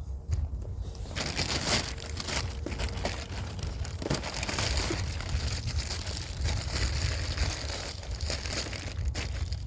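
Close-up crinkling and rustling of handled plastic, irregular and crackly, starting about a second in.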